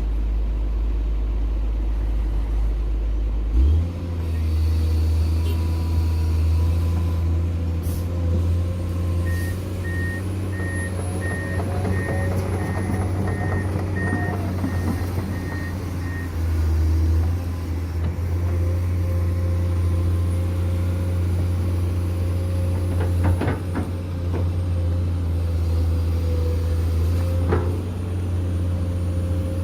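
Heavy construction machinery's diesel engine running steadily, picking up speed a few seconds in. A reversing alarm beeps about twice a second for some seven seconds, and a few sharp knocks come near the end.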